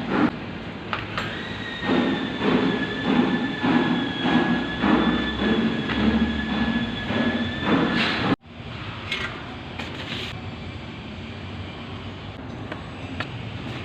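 Electric diamond core drill running: a steady high whine over a regular pulsing about every 0.6 s, cutting off abruptly about eight seconds in, followed by a quieter steady noise with a few clicks.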